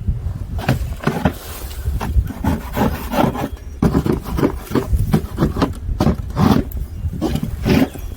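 Irregular crunching and scraping in snow, a dozen or so short strokes, over a steady low rumble of wind on the microphone.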